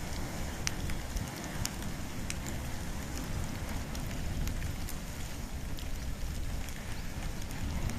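Campfire of wood and bamboo burning: a steady low rumble of flame with irregular sharp crackles and pops.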